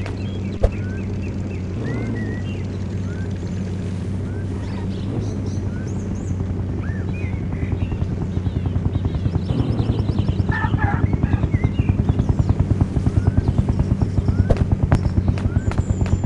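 An engine running with a steady low hum. From about eight seconds in it takes on a fast, even pulsing that grows louder, while short high chirps sound above it.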